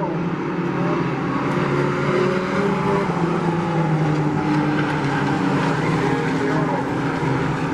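Several short-track sport trucks' engines running at racing speed in a pack. Their overlapping engine notes rise and fall slightly but hold steady overall.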